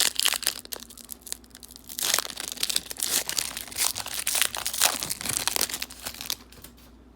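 A trading-card pack wrapper being torn open and crinkled by hand, a dense crackling that stops about six seconds in.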